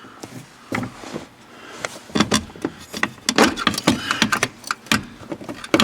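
Irregular knocks and clanks of metal parts and hand tools being handled as a truck's parking brake assembly is worked loose, sparse at first and coming thick and fast from about two seconds in.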